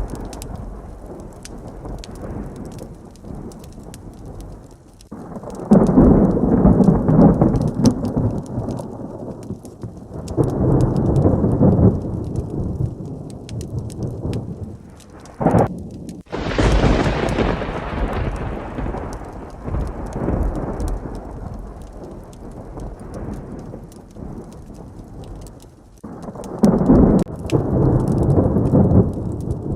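Heavy rain with thunder: low rolling rumbles about six and ten seconds in, a sharp close thunderclap about sixteen seconds in that rumbles away over several seconds, and another rumble near the end.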